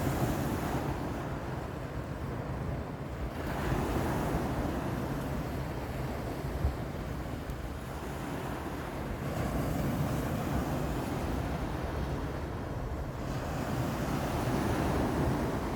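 Black Sea waves breaking on the shore, the surf swelling and falling back roughly every five seconds, with wind rumbling on the microphone.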